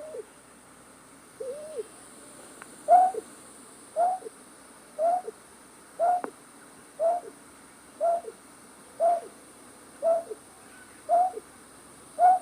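A night bird's call used as a trapping lure: a short hooting note repeated about once a second, each note sliding down in pitch at its end. The notes are spaced more loosely and are fainter for the first couple of seconds.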